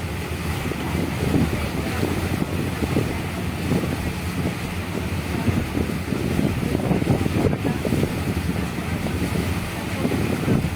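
Abra water taxi's diesel engine running steadily, a low even hum, with wind buffeting the microphone.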